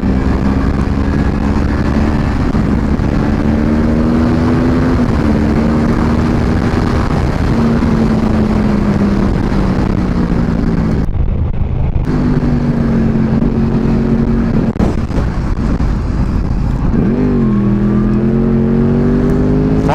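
Motorcycle engine running hard at speed. Its pitch climbs and then drops back several times as the gears change, with one sharp dip and re-climb near the end. Heavy wind rush on the microphone runs under it.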